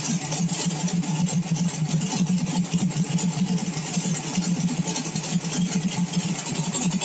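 Turbocharged small-block V8 running on E85 through a CSU blow-through carburetor, idling steadily while warming up from a cold start with no choke. The idle is smoothing out as the engine and fuel take on heat.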